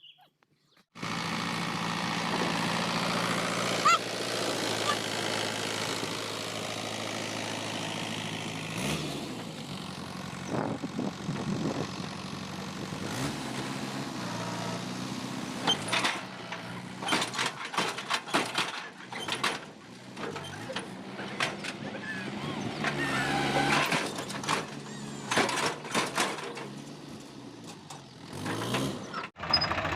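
A tractor's diesel engine running steadily. Its engine speed dips and recovers about nine seconds in, and the second half is broken by repeated knocks and clatters.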